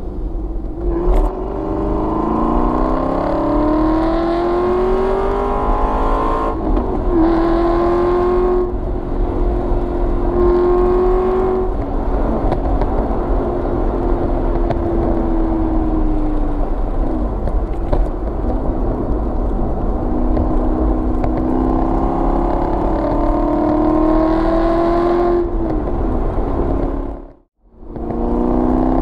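Aston Martin V8 Vantage's V8 engine and exhaust, held in a lower gear than needed to keep the revs up. It rises in pitch under acceleration, with a gear change about six seconds in, then holds a steady note, eases off with the pitch falling, and pulls up again. Near the end the sound drops out for a moment before the engine note starts rising again.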